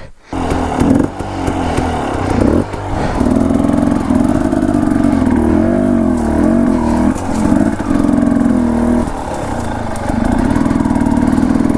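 Dirt bike engine running, its revs rising and falling unevenly, starting abruptly just after the start and dipping briefly about nine seconds in.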